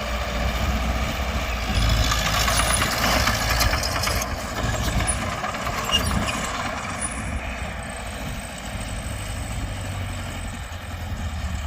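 Diesel engine of heavy earthmoving machinery running steadily with a low rumble, easing a little quieter in the second half.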